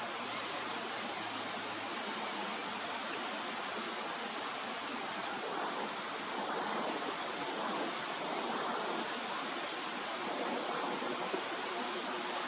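Steady rushing noise with no distinct events, swelling slightly about halfway through.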